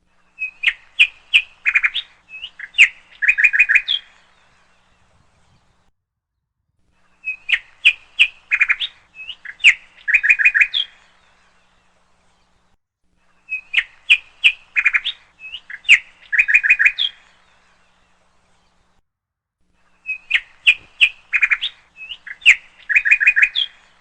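Songbird singing: a phrase of quick chirps and short trills, about three and a half seconds long, repeated four times in identical form about every six and a half seconds, with silence between.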